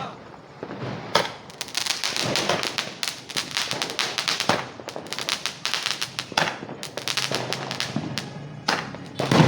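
Firecrackers going off: a rapid, dense run of crackling pops starting about a second in, with a few louder bangs standing out among them.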